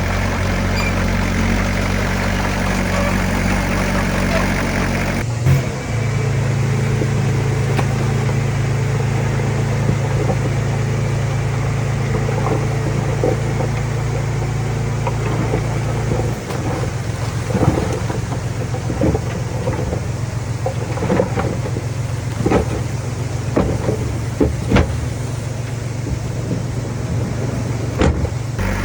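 Heavy construction machine's diesel engine running steadily, with the sound changing abruptly about five seconds in. From the middle on, irregular sharp knocks and clanks sound over the engine.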